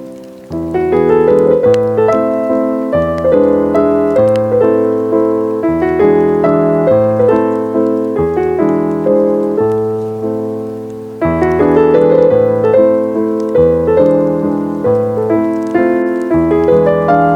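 Slow, gentle solo piano music, each note ringing out and fading, with a short lull about eleven seconds in before the playing picks up again.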